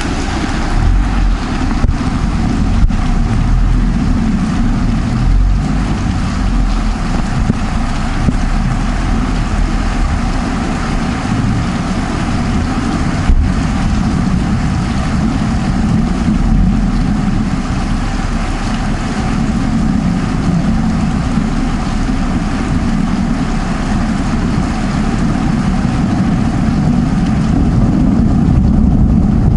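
Heavy rain falling: a steady, dense wash with a strong low end. A few sharp ticks come in the first three seconds and one more about thirteen seconds in.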